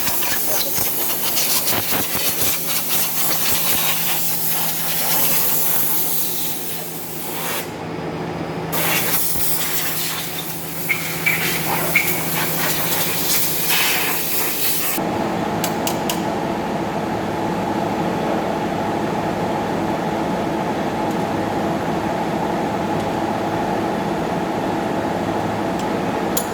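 A steady loud hiss of air or spray, broken off briefly about eight seconds in. About halfway through it stops and a steady mechanical hum takes over.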